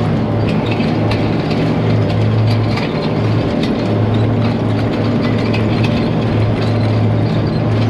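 Case IH Steiger 9370 four-wheel-drive tractor's diesel engine running steadily under load, pulling a DMI Tigermate field cultivator, with light rattling clicks from the machinery.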